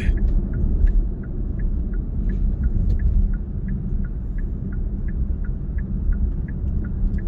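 Road and engine rumble inside a moving car's cabin, with the turn-signal indicator clicking steadily, about three ticks a second.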